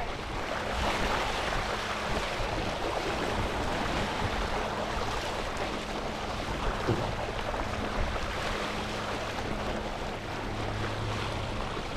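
Water rushing and splashing past a windsurf board under sail, with wind on the microphone.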